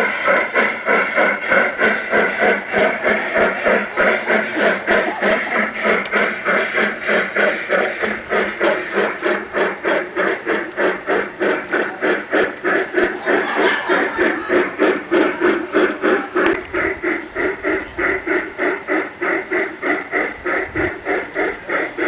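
G-scale model steam locomotive running on a garden railway, its sound system chuffing steadily at about three beats a second.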